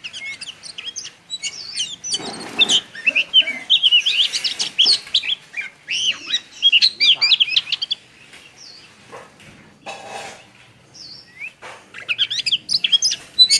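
Caged songbird singing a fast run of chirps and warbles, falling quiet about eight seconds in and starting again near the end. Two short rustling noises come at about two and a half seconds and ten seconds.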